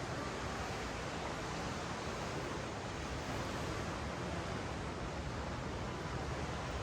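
Ocean waves washing up and down a sandy beach: a steady, even surf noise with no single crash standing out.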